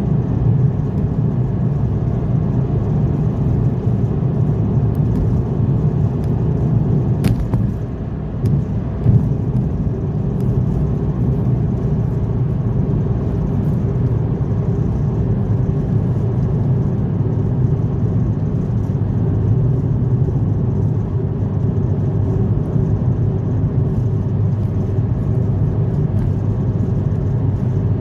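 A car driving along, its engine and tyres making a steady low rumble on the road. A single sharp click sounds about seven seconds in, and the level dips briefly then jumps up shortly after.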